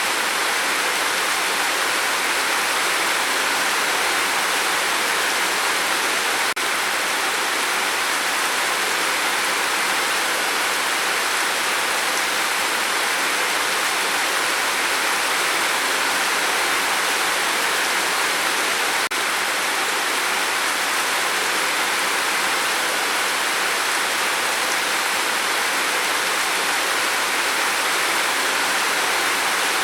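Steady rain falling, a constant, even hiss of many drops, with two very brief dips in level, about six seconds in and again about two-thirds of the way through.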